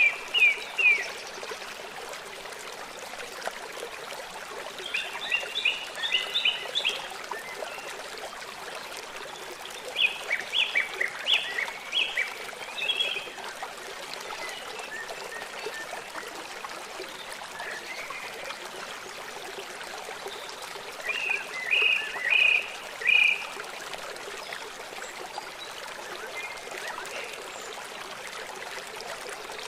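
Small birds chirping in bursts of quick short notes, a phrase every few seconds, over the steady rush of a flowing stream.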